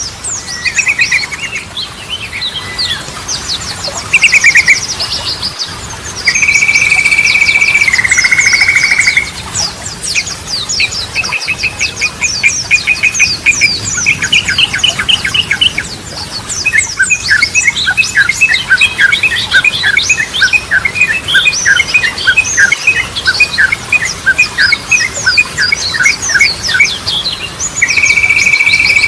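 Sooty-headed bulbul (trucukan) in full song. It gives fast chirping trills, a held whistle that steps down in pitch about six seconds in and again near the end, and a long run of quick repeated two-note phrases, with high, rapid twittering above throughout.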